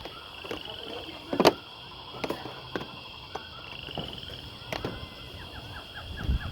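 A steady high chorus of insects, with a short rattling trill about half a second in and again near four seconds, and quick descending chirps near the end. Several sharp knocks of things being handled cut through, the loudest about a second and a half in.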